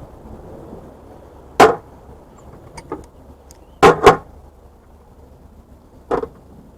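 Brass fittings from a tankless water heater clanking as they are set onto a scale for weighing: four sharp metal knocks, a close pair of them about four seconds in, with a few lighter clicks between.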